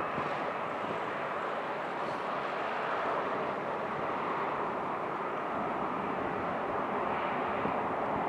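Jet airliner engines running as the plane taxis on the apron: a steady, even rumble with no change in pitch.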